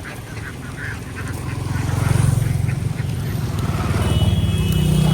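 A flock of ducks quacking, soon joined from about a second and a half in by a motor's low drone that swells and stays loud, covering the quacks.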